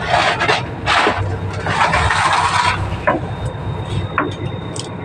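Fishing boat's engine running steadily with a low drone, under several loud rushing, scraping noises in the first half and a few sharp clicks later.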